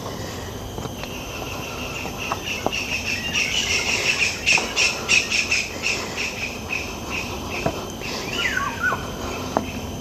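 Forest birds calling: a fast run of repeated high notes, about five a second, swells and fades over a few seconds, then a single falling call comes near the end. Soft footsteps on stairs and a low steady rumble lie beneath.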